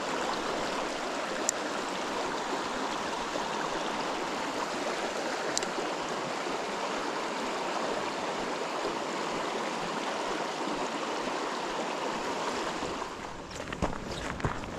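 Fast-flowing river water rushing steadily over rocks. Near the end a few irregular knocks and scrapes break in.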